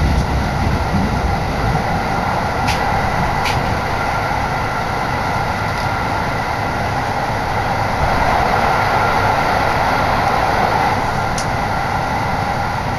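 Electric train running at speed, heard from inside the carriage: a steady rumble of wheels on rail with a faint whine. A few sharp clicks come over the wheels, two a few seconds in and one near the end.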